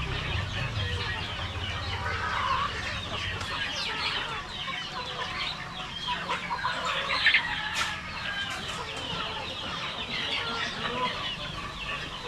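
A flock of Rhode Island Red chickens clucking and calling over one another, many overlapping calls throughout, with one brief sharper sound a little before the eight-second mark.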